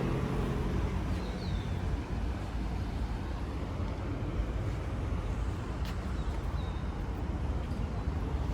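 Smart car's 1.0-litre three-cylinder engine running with a steady low rumble.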